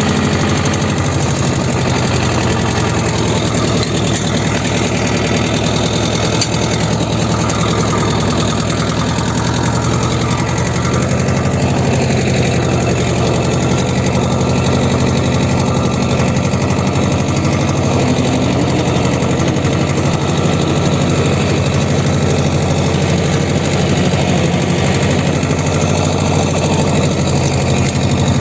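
T-25 tractor's two-cylinder air-cooled diesel engine running steadily after its cold start, with an even, rapid firing beat.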